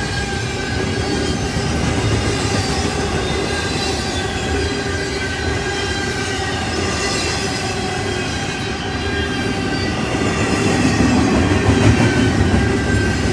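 A train rolling past, its steel wheels squealing against the rails in several high steady tones over a continuous rumble, getting a little louder near the end.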